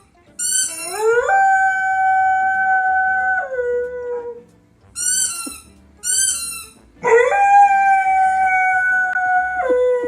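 An animal howling, twice: each time two short calls, then a rising howl held steady for a couple of seconds that drops in pitch at the end.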